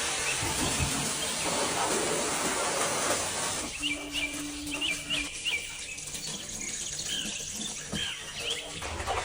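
Car-wash water spray hissing steadily, stopping abruptly about four seconds in. Birds chirp throughout, plainer once the spray stops.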